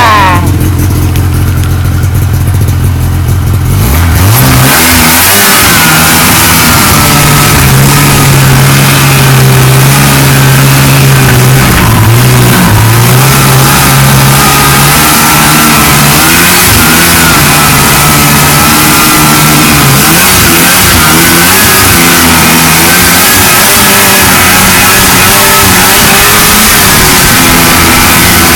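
1979 Ski-Doo Blizzard 5500 snowmobile's two-stroke engine idling steadily, then revving up about four seconds in. It keeps running under throttle that rises and falls as the sled is ridden, over a steady hiss.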